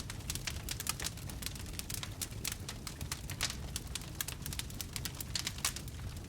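Wood fire crackling: a dense, irregular run of snaps and pops over a steady low rumble of burning.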